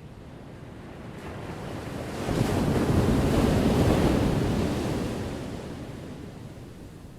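One ocean wave crashing: the surf builds about two seconds in, is loudest for a couple of seconds, then washes away and fades.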